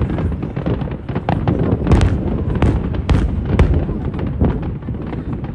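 Aerial fireworks bursting in a dense barrage: sharp cracks several times a second over a continuous low rumble of booms.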